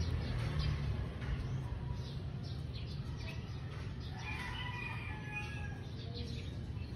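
Small birds chirping, short repeated calls, over a steady low hum, with a few longer held notes about four to six seconds in.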